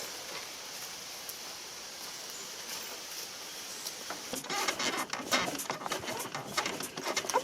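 A steady soft hiss, then from about four and a half seconds in a quick, irregular run of rustling and clicking.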